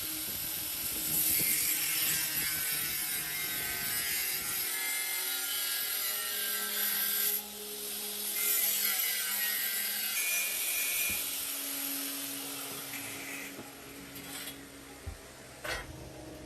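Workshop tool work: a steady scraping hiss, like sawing or abrading, with a faint whine. It fades about three-quarters of the way through, and a couple of sharp knocks follow near the end.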